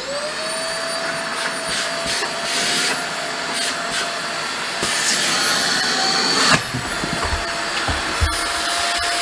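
Aposen cordless stick vacuum's motor spinning up as it is switched on, then running with a steady whine and rushing air. A sharp click comes about six and a half seconds in.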